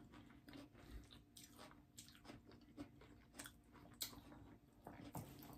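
Faint chewing with irregular crisp crunches as a hard taco shell is bitten and chewed.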